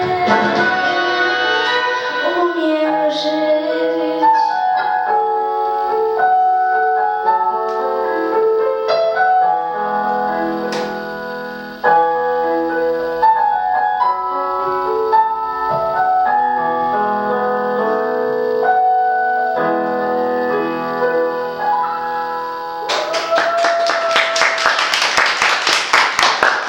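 A female singer's voice finishing a song over piano accompaniment, the piano then playing on alone to the song's end. Near the end, audience applause breaks out.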